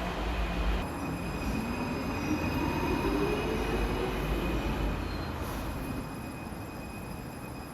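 Alstom AS-02 Santiago Metro train running between stations, its wheels and running gear making a steady rumble. A pitched whine rises and then fades over the middle of the stretch, and the sound gets quieter near the end.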